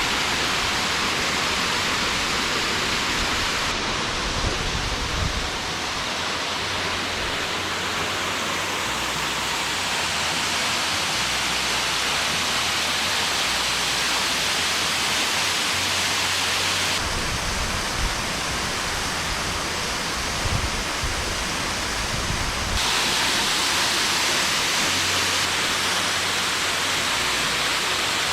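Waterfall rushing: a steady, loud wash of falling water whose tone shifts abruptly three times, with scattered low rumbles underneath.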